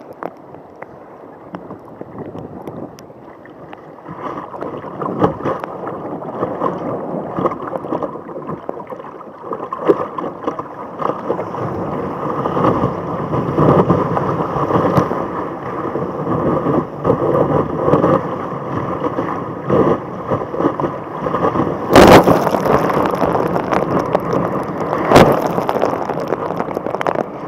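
Water rushing and splashing around a sea kayak out in the surf, with wind buffeting the microphone. The rushing builds after a few seconds, and two loud sudden crashes of water come near the end, about three seconds apart.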